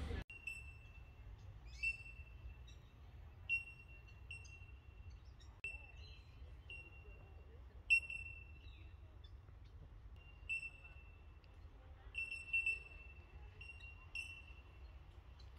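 Birds calling with short, high, ringing notes of a single pitch, more than a dozen of them at irregular intervals, over a faint steady low hum.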